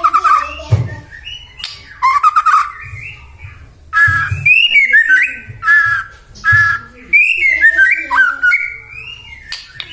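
White-rumped shama (murai batu) singing: loud, varied whistled phrases with quick pitch glides, rapid repeated notes and sharp clicks, delivered in several bursts with short pauses between them.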